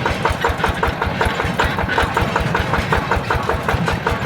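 Yanmar TF120 DI single-cylinder diesel engine running steadily, with an even chugging beat of about ten firing strokes a second.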